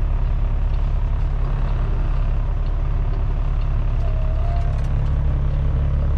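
Kenworth T660 semi truck's diesel engine running at idle, heard from inside the cab as a steady low drone that grows a little stronger about five seconds in.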